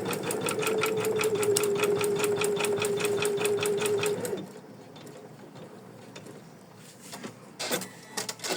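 Computerised embroidery machine stitching: a steady motor hum under a fast, even ticking of stitches, which stops abruptly about four seconds in. A few light clicks follow near the end.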